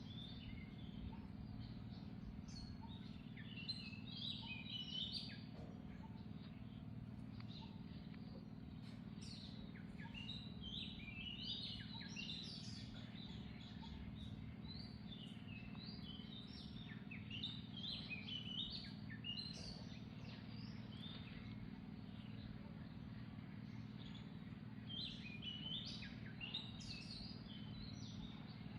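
Birds chirping in short bursts of quick high calls, over a steady low background rumble.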